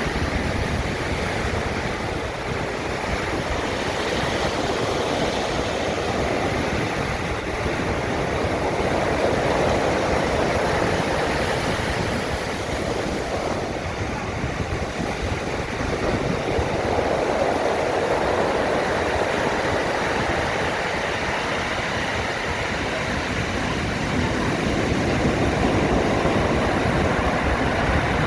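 Storm surf: waves breaking continuously in a steady roar of water noise, swelling louder three times, several seconds apart, as bigger waves come in.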